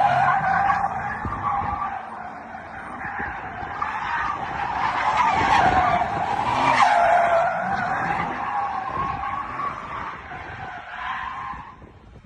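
Car tyres squealing for about twelve seconds, the pitch wavering up and down as the car skids, fading out near the end.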